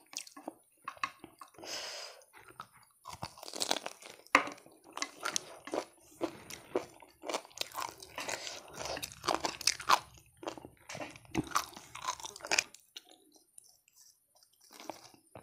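Crunchy bites and chewing of fried chicken, close to the microphone: a run of crisp crackles and wet chewing that stops about three quarters of the way in.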